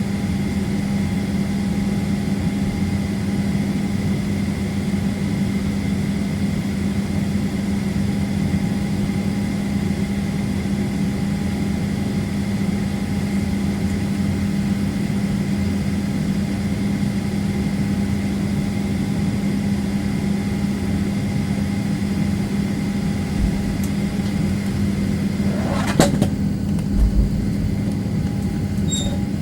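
Jet airliner cabin noise from a Southwest Boeing 737 on the ground: a steady engine hum with a constant low drone and fainter whining tones. One sharp knock comes about 26 seconds in.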